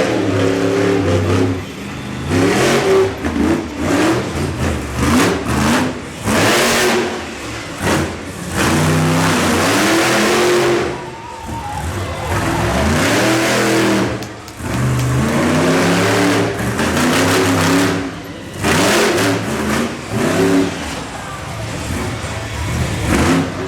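Monster truck engine revving hard, over and over: the pitch climbs and drops again and again, with loud noisy stretches in between.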